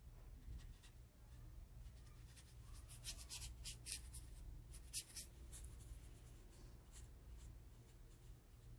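Faint scratchy strokes of a watercolor brush on paper, applying paint, with a cluster of short strokes in the middle.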